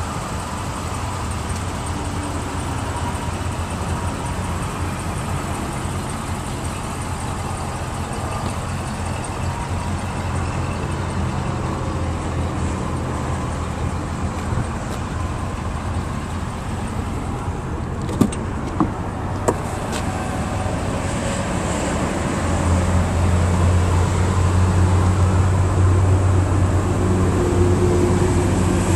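Motor vehicle engine idling with a steady low hum that grows louder about three quarters of the way through. A few sharp clicks sound near the middle.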